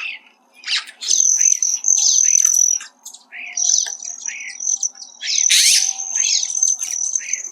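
Birds calling: a busy run of quick, downward-sweeping chirps over a thin, high, steady tone that holds for a second or more at a time.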